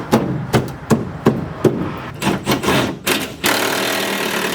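Hand-tool work on the truck while its clamps are refitted: about five sharp knocks roughly two a second, then a short run of irregular clattering knocks.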